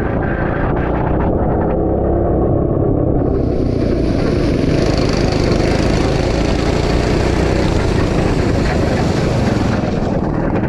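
Go-kart engine running steadily on a wet track, heard from a helmet camera. A rushing hiss joins about three seconds in and stops just before the end.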